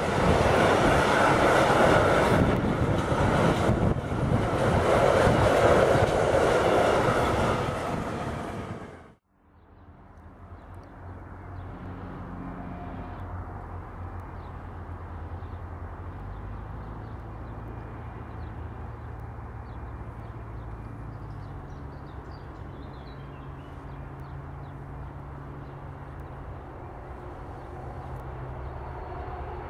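Freight train of empty double-deck car-carrier wagons rolling past close by, its wheels clattering over the rail joints; loud and steady for about nine seconds, then cut off abruptly. After that, a much quieter, steady distant low hum.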